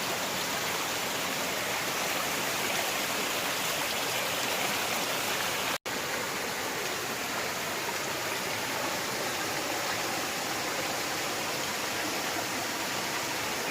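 Steady rushing of a flowing forest stream, broken by an instant's dropout to silence about six seconds in.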